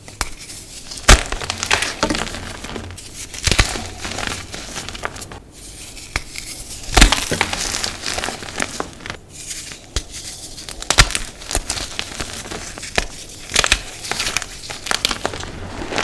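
Blocks of dyed gym chalk being crushed and crumbled by hand: irregular crunches and sharp cracks over a steady, powdery crumbling rustle, with the loudest snaps about a second in, near the middle and twice toward the end.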